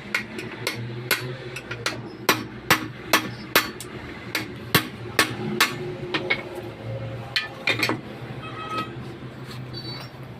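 Hammer blows on metal truck brake parts, roughly two strikes a second, each with a short ring. The strikes stop about eight seconds in.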